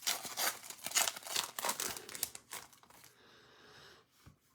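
A trading-card pack's foil wrapper crinkling and tearing as it is opened by hand, a quick run of crackles over about three seconds that then dies away.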